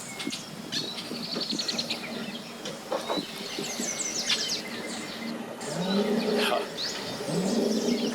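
Small birds chirping and trilling repeatedly in quick series. A lower, wavering sound comes in during the second half.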